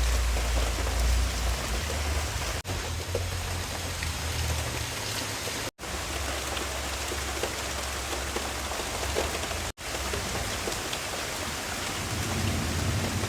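Heavy downpour: a dense, steady hiss of rain with scattered drop ticks and a low rumble underneath. The sound cuts out briefly three times.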